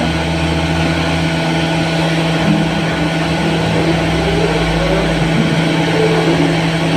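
A large diesel engine running steadily with a low hum, as heavy equipment is unloaded from a ferry; the deepest rumble drops away about five and a half seconds in.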